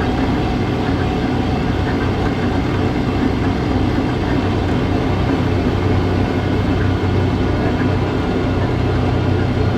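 A vehicle engine running steadily, with a low hum over an even rumble.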